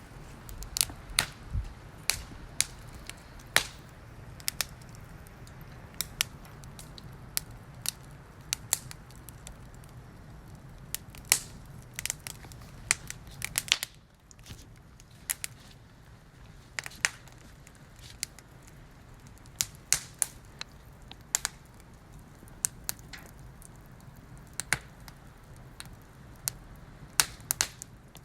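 Wood fire crackling: sharp, irregular pops and snaps about once or twice a second over a faint low rumble.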